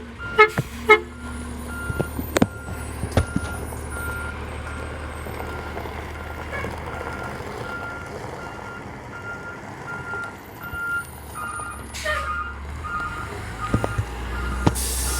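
Dumpster truck's reversing alarm beeping steadily over its running diesel engine, with a few sharp metallic knocks in the first few seconds. A second, slightly lower beep joins in near the end.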